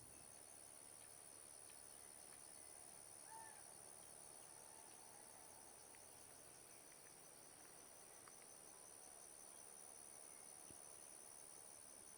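Faint chorus of insects: one high, steady, unbroken trill with a pulsing chirring just below it. A single short call is heard about three seconds in.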